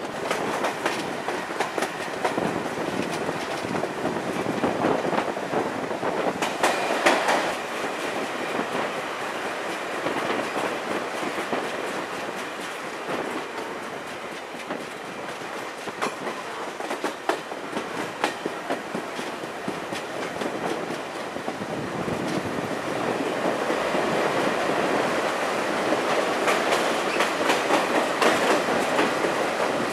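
Passenger train running along the track, heard from an open window of a carriage: steady rolling noise with the wheels clacking over rail joints, growing louder over the last several seconds.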